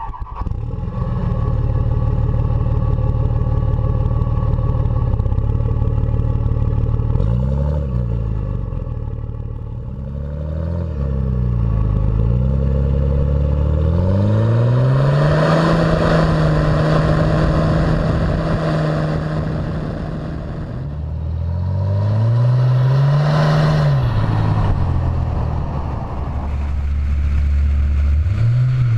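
Pickup truck engine idling through a stack exhaust and revved several times. There are a few quick blips, then a rev held high for several seconds about halfway through, and two more rises later.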